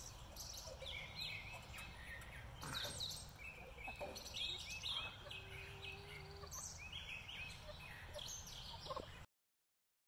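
Songbirds singing outdoors: series of quick repeated chirping notes over a steady low background rumble, with a couple of light knocks around three and four seconds in. The sound cuts off shortly before the end.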